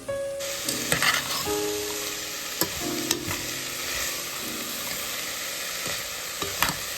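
A steady hiss starts suddenly about half a second in, with a few sharp clicks and taps through it, over soft piano music.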